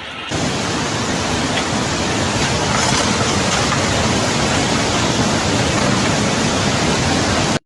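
Rushing floodwater: a loud, steady roar of water that starts suddenly just after the start and cuts off abruptly at the end.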